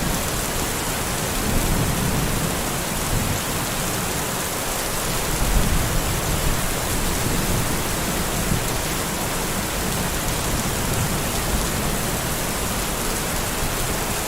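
Steady rain falling, with low rumbles of thunder swelling and fading beneath it, the clearest about a second and a half in and again about five seconds in.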